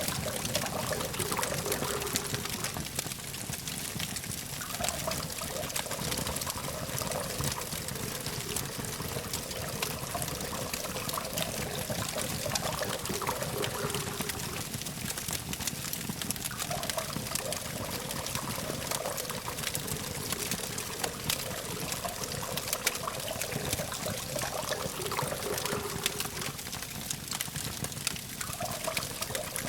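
Campfire crackling with a constant scatter of small pops, over a steady hum of distant traffic that swells and fades every few seconds.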